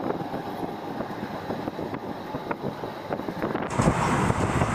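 Railway station ambience: a steady rumbling noise with scattered clicks and wind buffeting the microphone, getting louder a little under four seconds in.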